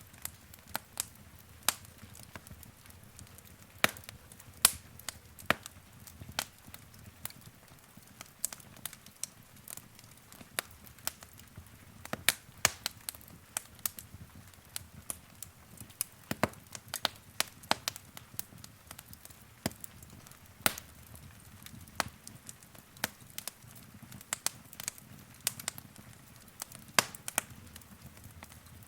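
Wood fire crackling and popping: sharp, irregular pops and snaps, a few loud ones, over a soft low rumble of the flames.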